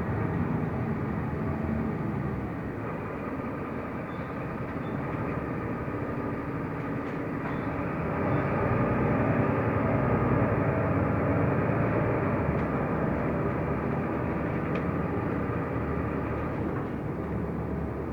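Mercedes-Benz Türk O345 Conecto LF city bus under way, heard from inside the cabin: a steady mix of engine and road noise. It grows louder for a few seconds about eight seconds in.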